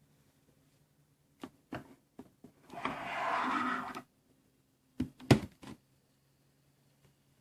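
A series of sharp clicks and knocks with a short burst of hiss about three seconds in; the loudest click comes just after five seconds.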